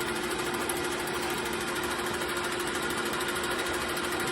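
Metal lathe running steadily on very slow power feed, taking a light finishing cut on aluminum with cutting lube. It gives an even hum with a constant whine.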